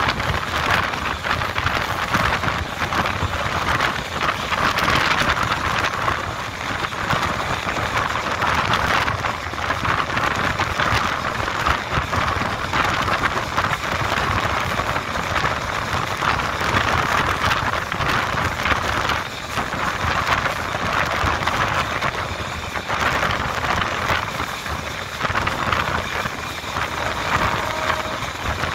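Passenger train running at speed: a steady rush of wheel-on-rail noise and air, with a dense rattling clatter throughout.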